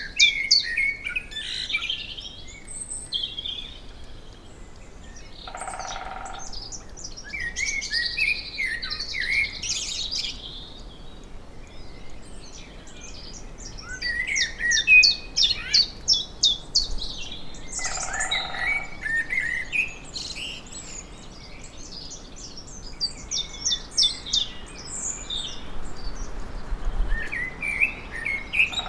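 Songbirds singing in forest with many fast chirps and trills. Twice, about six seconds in and again near the eighteen-second mark, a great spotted woodpecker drums on a tree in a short rapid roll.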